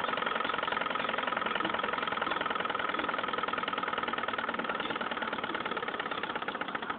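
A model Stirling engine running steadily at speed, making a fast, even mechanical clatter with a steady whine over it.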